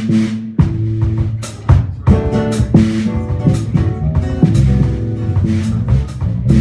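Live rock band playing an instrumental passage: drum kit with cymbal crashes, bass and electric guitar, keyboard in the mix.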